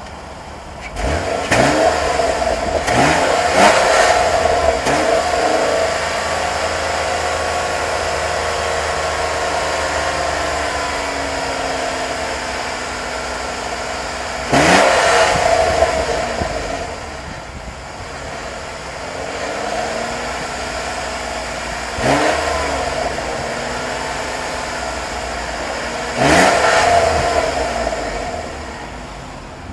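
2002 Ford Taurus's 3.0L Duratec V6 heard at the exhaust, idling between throttle blips. There are four quick revs in the first few seconds, then three single revs spaced well apart, each rising sharply and settling back to idle.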